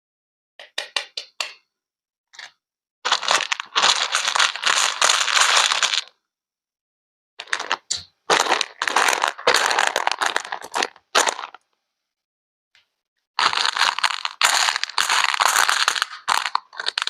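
Crisp crunching and crackling, something brittle being crushed, in several bursts of a few seconds each with abrupt silent gaps between them.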